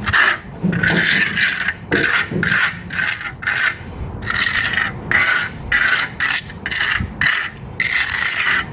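Steel trowel scraping stiff concrete patching compound over a concrete step in repeated short strokes, about two a second.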